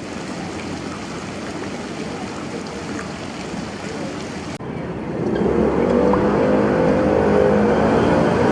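Steady city background noise, then, after an abrupt cut a bit past halfway, the louder rumble of a moving vehicle with a steady humming drone.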